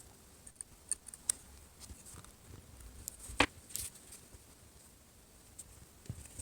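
Scattered small clicks and scratchy rustles of fingers working double-sided tape onto the edges of a smartphone, with one sharper click about three and a half seconds in.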